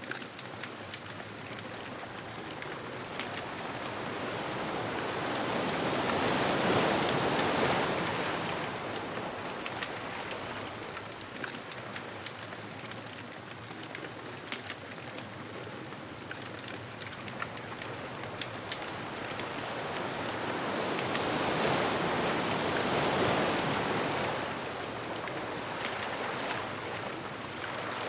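Ocean waves washing onto a beach. Two slow surges build and fall back, one about a quarter of the way in and one near the end, over a constant hiss of surf with fine ticking throughout.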